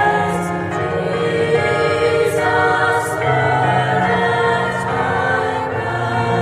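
School choir singing in several parts, holding long, sustained notes, with the hiss of sung 's' consonants heard now and then.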